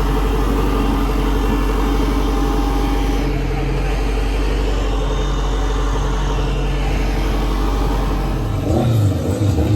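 A car's engine and road noise running steadily at an unchanging pitch. Music comes in near the end.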